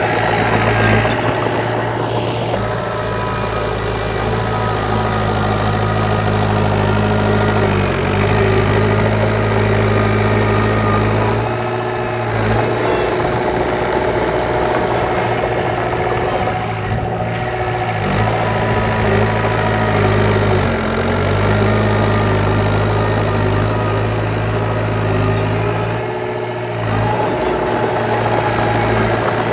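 Heavy construction machine's engine running steadily, dipping briefly in pitch a few times and easing off for a moment twice.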